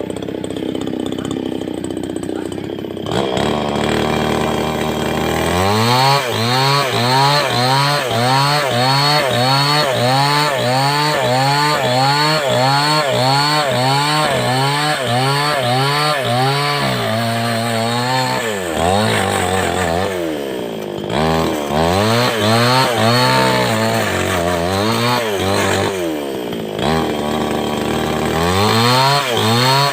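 Big 070-class two-stroke chainsaw cutting timber lengthwise. It runs steadily for a few seconds, revs up about three seconds in, then works through the cut with its engine pitch swelling and sagging in a regular rhythm, roughly once or twice a second. It eases off briefly twice in the second half.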